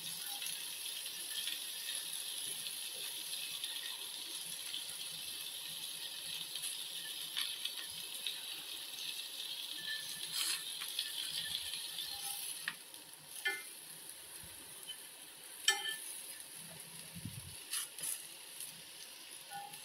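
Squash slices frying in a cast-iron skillet, a steady sizzle that drops off somewhat about two-thirds of the way through. A few short clicks of metal tongs against the pan as the pieces are turned.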